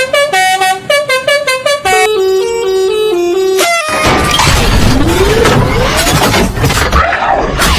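A Basuri 'telolet' bus horn plays a quick multi-note tune for about four seconds. It then gives way to a dense noisy stretch of clanks and rising whines.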